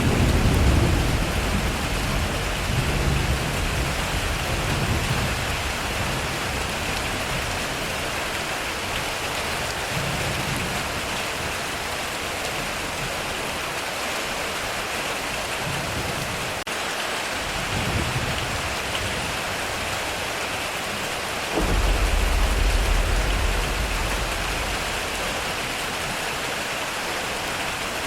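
Heavy rain pouring steadily on a metal roof, with thunder rumbling low several times. A louder peal starts suddenly about three quarters of the way through and rolls on for about three seconds.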